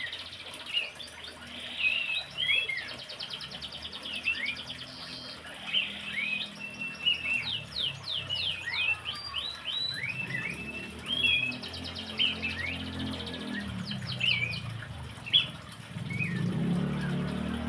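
Horsfield's babbler (pelanduk semak, cingcoho) singing busily: a rapid run of short whistled notes sliding up and down, broken twice by fast buzzy trills. A low hum rises underneath in the last seconds.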